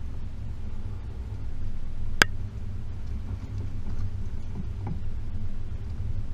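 Range Rover P38's 4.0 V8 running low and steady as the vehicle drives a rough lane, with one sharp knock about two seconds in and a few faint ticks later.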